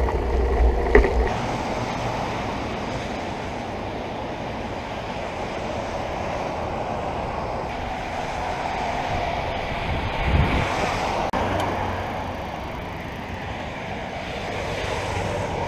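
Steady rushing wind and road noise of riding a bicycle, with a short louder swell about ten seconds in.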